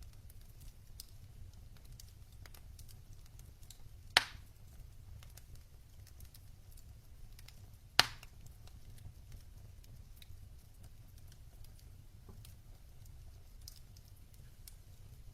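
Wood fire in a fireplace crackling, with scattered small ticks and two loud sharp pops about four and eight seconds in, over a low steady rumble.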